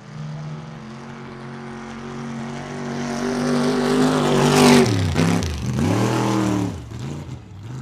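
A super-class mud truck's engine running hard at high revs through the mud pit, steadily growing louder. About five seconds in the revs drop sharply, climb again briefly, then fall off near the end.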